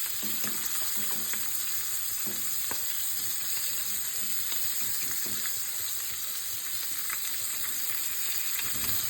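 Wild brown trout and onions sizzling steadily in a frying pan, with scattered small pops and crackles.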